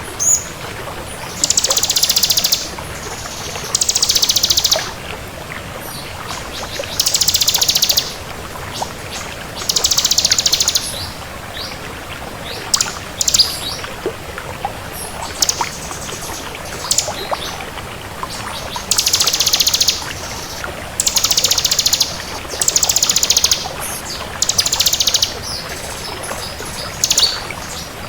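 Bar-winged prinia (ciblek kristal) singing: about ten high, fast trilled phrases, each about a second long, a second or two apart, over a steady hiss.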